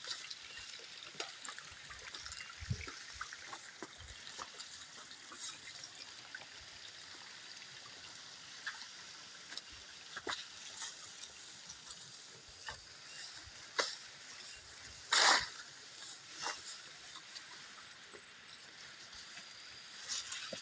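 Water trickling and splashing over rocks in a small stream, with scattered small clicks and splashes and one louder splash about fifteen seconds in.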